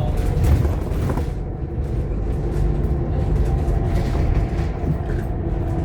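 Scania K230UB OmniLink bus's five-cylinder diesel engine running, heard from inside the cabin as a steady low drone with road rumble.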